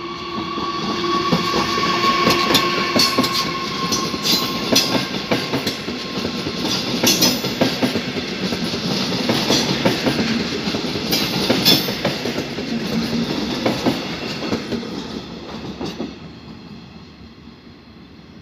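A train passing along the tracks, its wheels clicking sharply and repeatedly over rail joints and points, with a steady whine that fades in the first few seconds. The sound swells, then dies away near the end as the train moves off.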